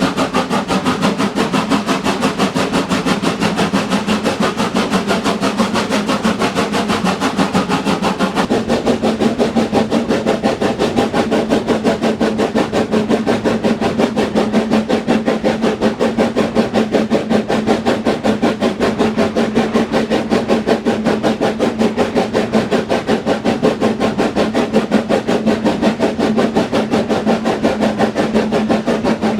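Train running steadily, with a fast, even rhythmic clatter over a steady hum; the tone of the running changes about eight seconds in.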